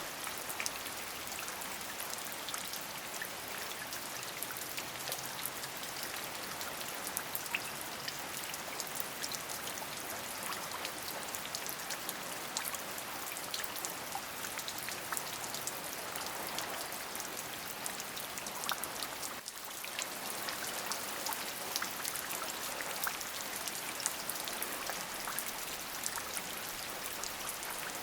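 Steady rain falling, an even hiss strewn with many separate, close drop hits. The sound dips briefly a little past two-thirds of the way through, then carries on as before.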